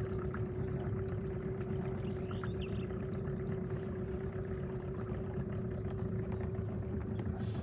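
Boat's outboard motor running steadily: a low rumble with a constant hum.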